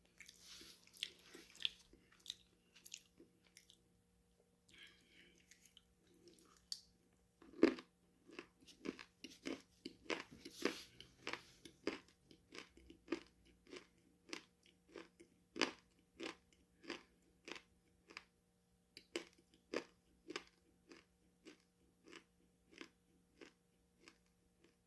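Close-miked eating of crunchy food: some crackly crunching, then a loud bite about eight seconds in. This is followed by steady rhythmic chewing, about one and a half crunchy chews a second.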